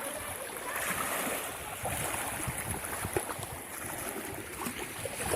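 Sea waves washing onto a beach, a steady rushing surf with gusts of wind buffeting the microphone.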